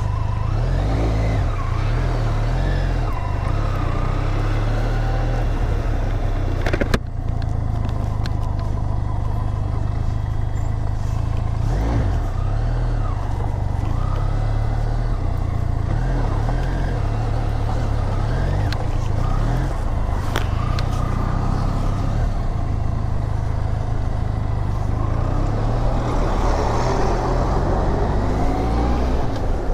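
Motorcycle engine running on the move, with steady wind rumble on the microphone and a single sharp knock about seven seconds in.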